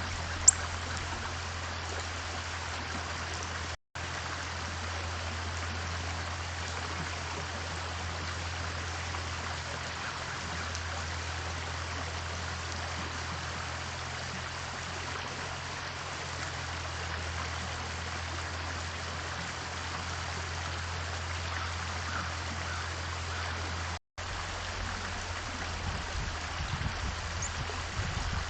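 Steady rushing noise like running water, with a low hum underneath. A single sharp click sounds about half a second in, and the sound cuts out briefly twice.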